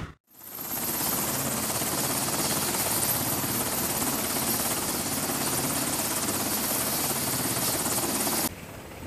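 A helicopter running with a steady noise that cuts off abruptly about a second before the end.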